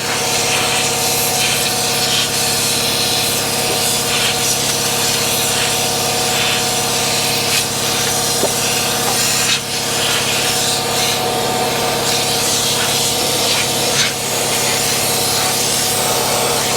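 Compressed-air undercoating gun spraying oil under a truck: a loud, steady hiss with a steady hum underneath.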